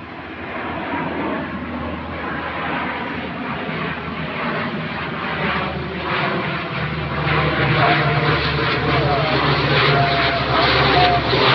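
Fixed-wing aircraft flying overhead, its engine drone growing steadily louder as it approaches.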